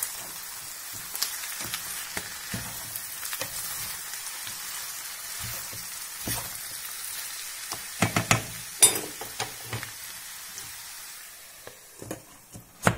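Potatoes and oyster mushrooms sizzling in oil in a frying pan while a spatula stirs them, with scrapes and knocks against the pan, loudest about eight to nine seconds in. Near the end a glass lid goes on, the sizzle fades and there is a sharp knock.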